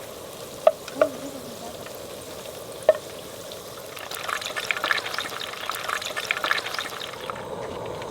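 A few sharp clinks, then from about four seconds in, food frying in a hot pan, sizzling and crackling.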